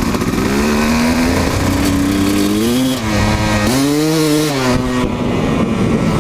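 Kawasaki KX250 two-stroke dirt bike engine running under way with the revs rising and falling. The revs climb in the first two seconds, dip about three seconds in, swell again around four seconds, then drop back.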